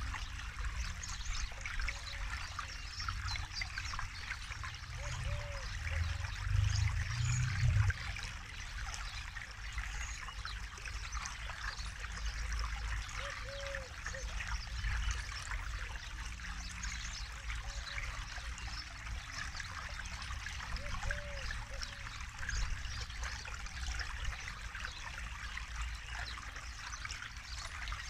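Forest river flowing steadily with a constant trickling, babbling rush of water. A deeper swell of the flow comes about six to eight seconds in.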